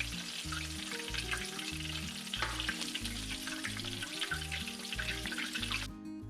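Chicken strips frying in hot oil in a cast iron skillet: a steady sizzle with a few sharp crackles, over background music with a repeating bass line. The sizzle cuts off suddenly near the end, leaving only the music.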